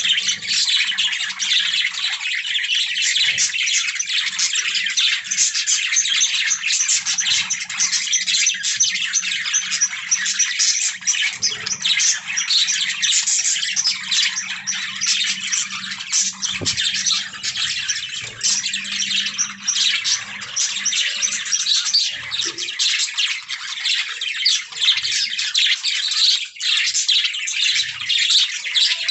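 A flock of budgerigars chattering, with dense, overlapping chirps and warbles that run on without a break.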